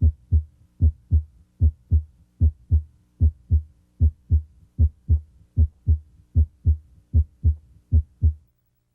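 Normal heart sounds at the mitral area (cardiac apex): a steady lub-dub of paired beats, about 75 a minute. The first sound, S1, is mitral valve closure and is usually louder here than S2. The beats stop near the end.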